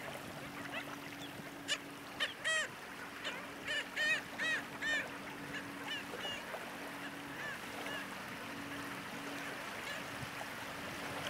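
Birds calling: a quick series of short, arched, honking calls, densest about two to five seconds in and then thinning out, over a faint steady hum.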